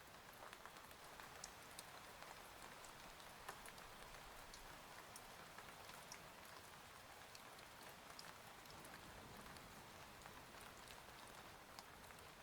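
Faint steady rain with scattered small drips and ticks of drops landing.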